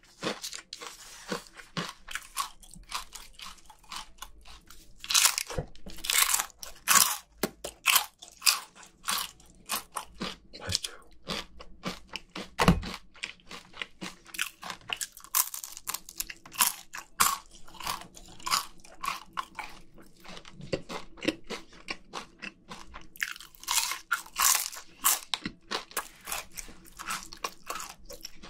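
Close-miked crunching and chewing of fried chicken skin dipped in spicy sauce, a quick run of sharp crunches with a quieter stretch in the first few seconds. One dull thump about halfway through.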